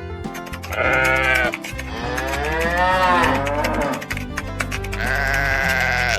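Sheep bleating three times in long, wavering calls over background music with a steady beat.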